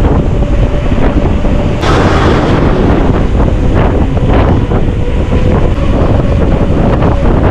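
Loud wind buffeting the microphone of a camera on a moving bike, with a faint steady hum underneath.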